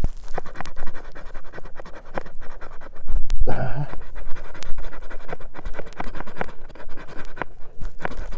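Someone blowing repeated breaths onto tinder that has just flared, to fan it into flame, over sharp scratching and crackling. The loudest breath comes about three and a half seconds in.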